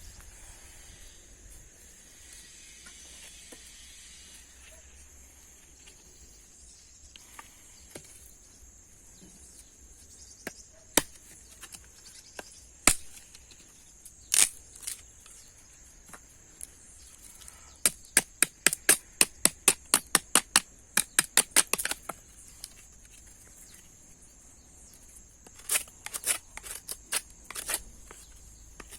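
Sharp clicks or knocks: a few single ones, then a rapid run of about four a second, then a shorter cluster near the end, over a steady high-pitched insect drone.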